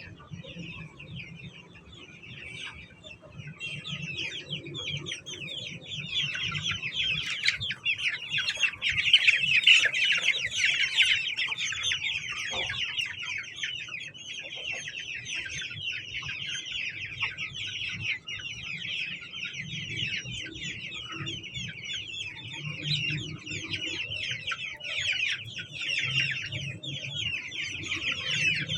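A brood of young chicks peeping: a dense chorus of short, high, falling chirps, sparse at first and filling in to a continuous chatter a few seconds in.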